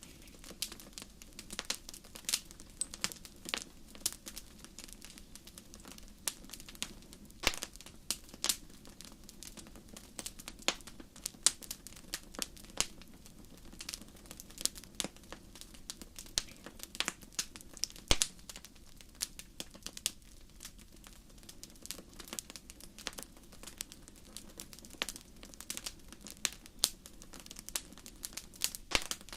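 Crackling fire: burning wood giving off irregular snaps and pops, a few louder than the rest, over a faint steady low background.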